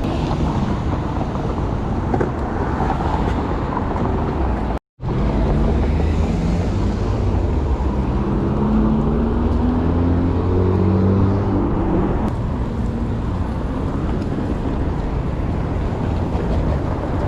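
Downtown street traffic heard from a moving bicycle, a steady low rumble, with the sound cutting out for a moment about five seconds in. From about eight seconds a nearby vehicle's engine rises in pitch as it accelerates.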